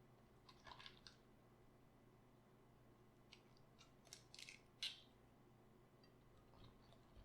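Faint crisp crunching and crackling of cabbage being worked by hand, in two short clusters: one about a second in and a longer one from about 3 to 5 seconds, loudest near the end of it.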